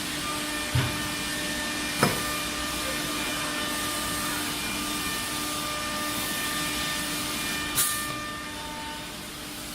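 CNC router running with a steady hum and hiss under a constant tone, broken by three sharp knocks: about a second in, at two seconds, and near the end, the last followed by a short hiss.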